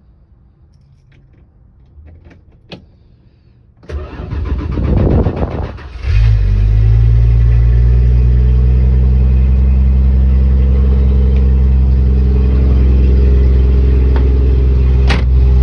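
A classic car's engine on a cold start: a few faint clicks, then the starter cranks for about two seconds before the engine catches and settles into a steady idle. There is a sharp click near the end.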